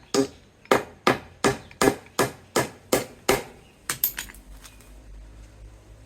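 Hammer driving nails into a mango-wood hive box: a steady run of about nine blows, roughly two and a half a second, then a few lighter taps about four seconds in.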